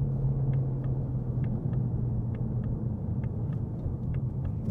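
The 2026 Ford Mustang GT's 5.0 L V8 running at steady revs, heard from inside the cabin as a low, even hum. Faint clicks in pairs come about once a second.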